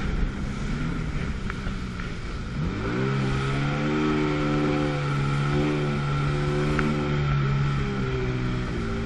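Two-stroke jet ski engine throttling up about two and a half seconds in, holding a steady pitch, then easing off near the end, over a constant rush of wind and water.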